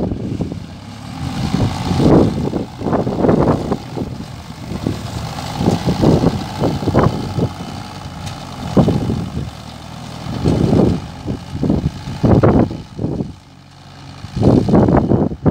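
Tractor engine running, with irregular gusts of wind buffeting the microphone.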